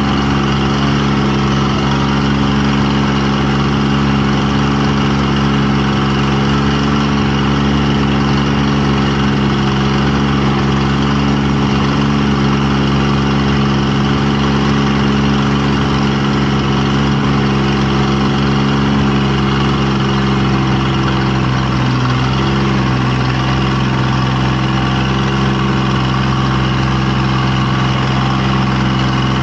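An engine idling steadily, a deep even hum whose pitch wavers briefly about two-thirds of the way through.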